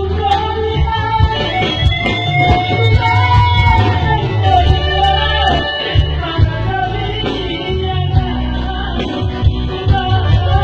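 A singer's voice carrying a wavering melody over instrumental accompaniment with guitar and a strong, steady bass.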